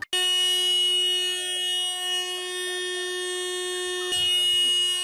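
A steady electronic buzzer tone holding a single pitch, starting abruptly just after the start and dipping then rising again in loudness about four seconds in.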